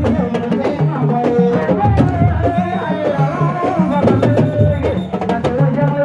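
Sabar drums beating a fast, driving rhythm with voices singing over them.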